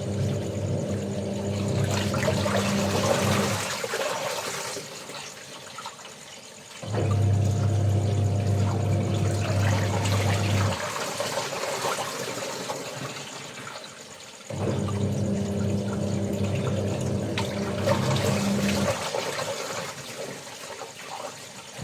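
Washing machine in its wash cycle: the motor hums in spells of about four seconds, pausing for a few seconds between them, while water sloshes and swishes throughout. Insects chirr faintly and steadily in the background.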